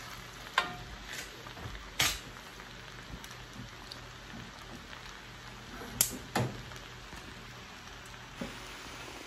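Beef and egg noodles sizzling in a cast-iron wok as they are tossed with a wooden spoon and a slotted spatula. Sharp knocks of the utensils against the wok come twice in the first two seconds and twice about six seconds in.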